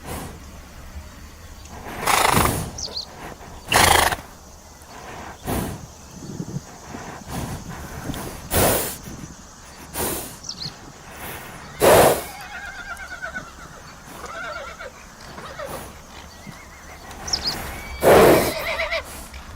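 Horses neighing and whinnying: several short, loud noisy blasts spaced a few seconds apart, with quavering pitched whinnies near the middle and again near the end.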